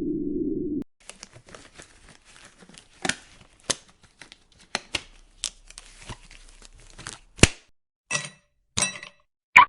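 Latex rubber being stretched and rubbed: irregular crackling and tearing sounds with several sharp snaps. A low wind rush cuts off about a second in, and a few short ringing clinks come near the end.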